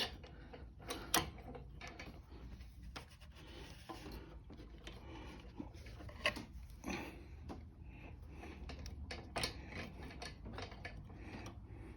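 Faint scattered metallic clicks and light knocks as the carburetor linkage on a Kohler mower engine is worked loose by hand.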